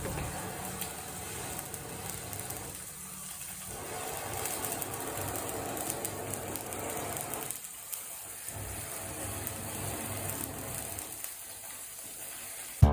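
Trout sizzling as it grills over a wood fire in a fireplace, a steady hiss with light crackling ticks.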